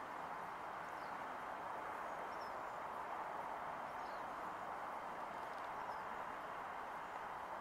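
Steady outdoor background hiss, with faint short high chirps from a small bird repeating every second or two.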